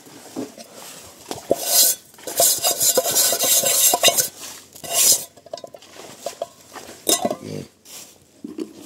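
Metal utensils clinking and scraping against each other, with several short hissing bursts in between.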